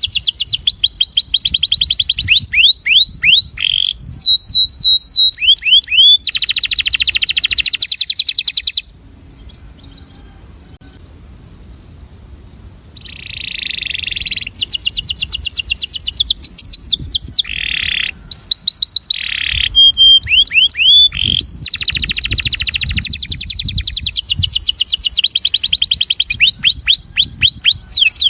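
Male domestic canary singing: fast trills of rapidly repeated sweeping notes, changing from one trill to the next, with a break of a few seconds about a third of the way in before the song resumes.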